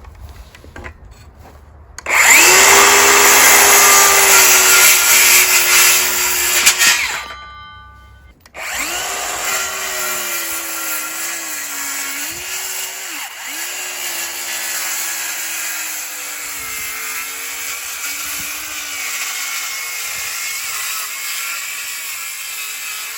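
DeWalt DCS573B cordless brushless 7-1/4-inch circular saw cutting a 2x4. It starts about two seconds in and runs loud for about five seconds, winds down, then runs again from about eight and a half seconds to the end, its pitch dipping and recovering under the load of the cut.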